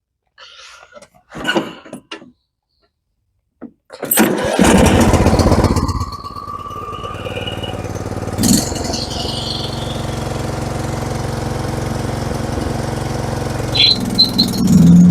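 A few light clicks and knocks, then about four seconds in the lawn tractor's Briggs & Stratton engine cranks, catches and runs loud for a couple of seconds before settling into steady running. Near the end the engine note gets louder.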